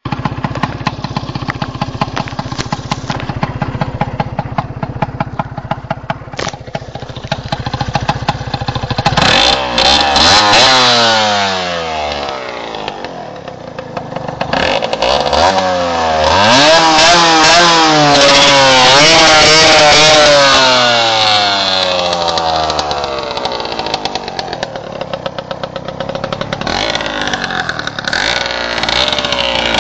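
Honda NSR two-stroke motorcycle engine with a broken exhaust, very loud. It idles with a rapid pulsing, is revved up and let fall about nine seconds in, revved again in a longer climb and fall through the middle, and picks up once more near the end.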